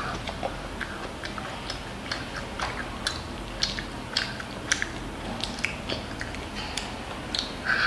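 A child chewing and eating kimchi fried rice: irregular short mouth clicks and smacks, a few a second, with a wooden spoon scooping at the rice.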